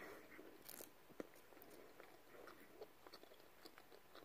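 A person chewing a bite of soft cookie, faint, with a few small mouth clicks.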